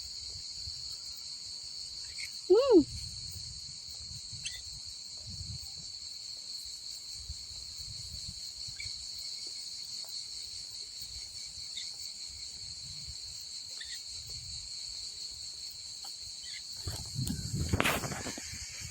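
Steady high-pitched chorus of insects, with one short, loud duck call about three seconds in. A brief rustle comes near the end.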